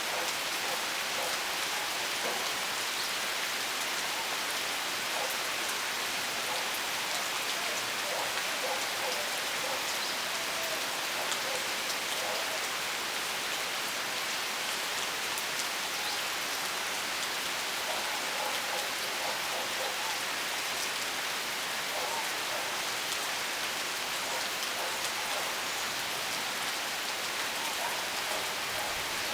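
Steady rain falling, with a fine patter of individual drops ticking through an even hiss.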